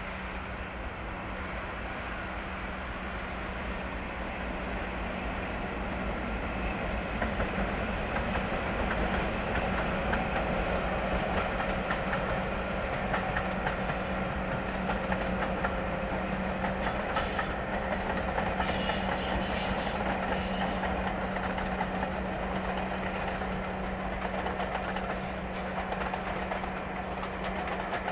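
Diesel locomotive hauling a passenger train past, a steady engine drone with wheels clicking over the rail joints, growing louder over the first several seconds.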